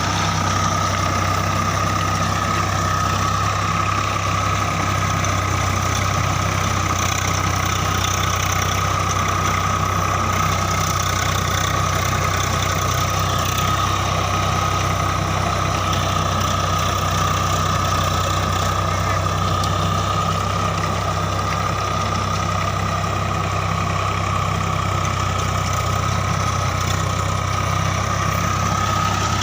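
Tractor diesel engine running at a steady speed, with a steady high-pitched whine over the engine note.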